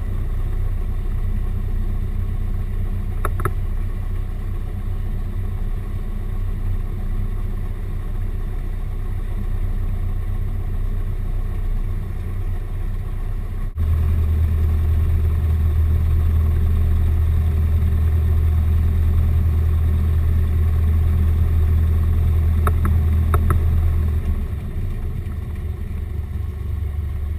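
Cessna 172R's four-cylinder Lycoming engine and propeller running steadily as a low drone. About 14 seconds in the sound jumps suddenly louder and deeper, then drops back somewhat near the end, with a few faint ticks.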